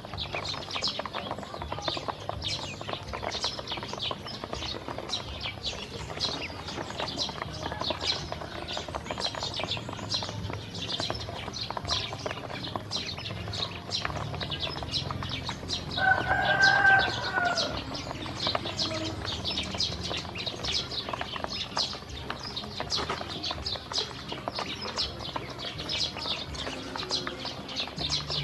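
A flock of ducklings feeding and drinking, a dense stream of rapid, short, high peeps and pecking clicks. About sixteen seconds in, one louder bird call lasts about a second and is the loudest sound.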